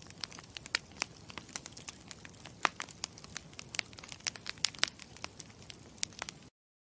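Campfire crackling: a steady hiss with irregular sharp pops, cutting off suddenly near the end.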